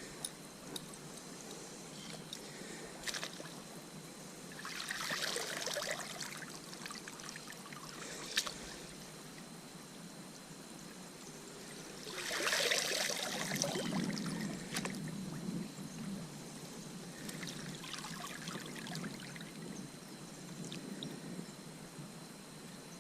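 Water splashing and trickling in three spells, the middle one the loudest, with a few sharp clicks between them.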